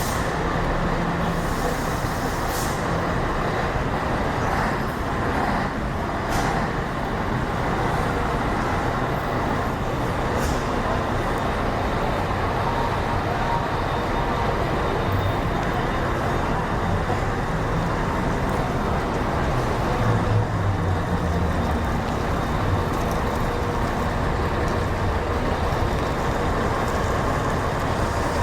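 Scania K113 coach's 11-litre straight-six diesel running steadily under way, with a few brief sharp clicks or hisses in the first ten seconds.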